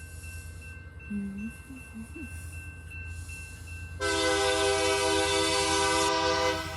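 Lead locomotive of a freight train, an EMD GP39-2, sounding one long blast of its multi-tone air horn about four seconds in, over the low rumble of its diesel engine.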